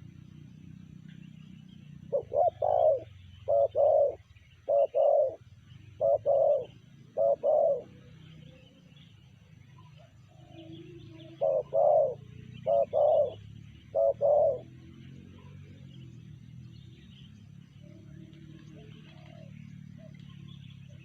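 Spotted dove cooing: two phrases of repeated low coos, the first starting about two seconds in and the second near the middle, with fainter coos later on. A steady low hum runs underneath.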